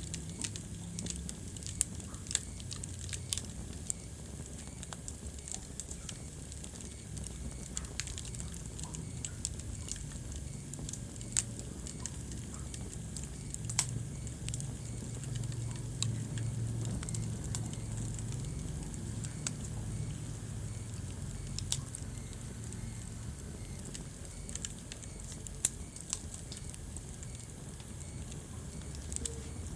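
Wood fire burning in a fireplace, crackling steadily with scattered sharp pops over a low, even rush of flame.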